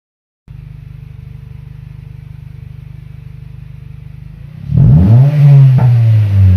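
Honda CR-Z's 1.5-litre i-VTEC four-cylinder, breathing through a Spoon N1 aftermarket exhaust, idling with a steady pulsing note. About four seconds in it revs up sharply, then the pitch falls back.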